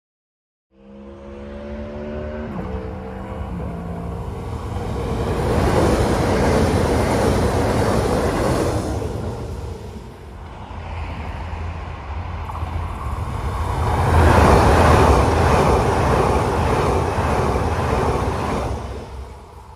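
Trains passing close by on an electrified line: a few steady tones stepping down in pitch at first, then the rising rush of wheels on rails, which fades; then a red high-speed electric passenger train passes at speed, its rush swelling louder and dying away near the end.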